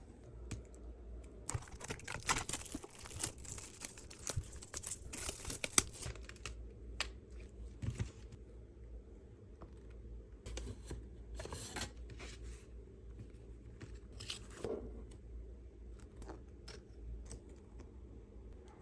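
Irregular rustling and crinkling handling noises, like something being crumpled or torn, over a low steady hum; busiest in the first few seconds, then sparser.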